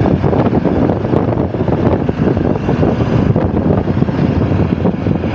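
Motorcycle riding along: a steady engine drone mixed with wind and road noise.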